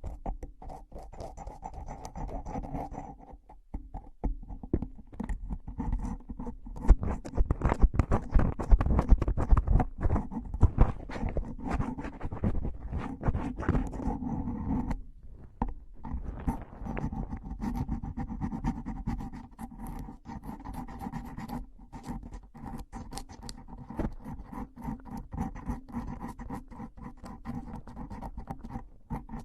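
Close-miked ASMR trigger sounds: rapid scratching and crackling, densest and loudest from about six to fifteen seconds in.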